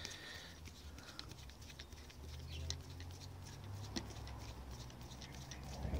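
Faint, irregular small clicks and scrapes of a bolt being wound in by hand on a K-Edge handlebar camera mount, over a low rumble.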